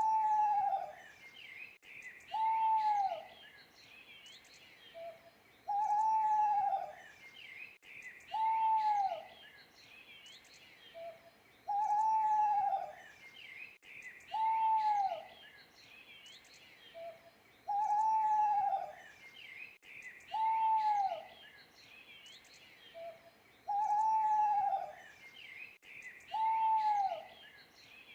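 Owl hooting in a regular repeating phrase: a short soft note, then two longer hoots that drop in pitch at the end, about every six seconds. Small birds chirp faintly behind it.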